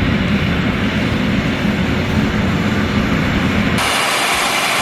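Heavy truck engine running steadily with a low rumble. Near the end the sound changes abruptly to a hissing, higher-pitched noise.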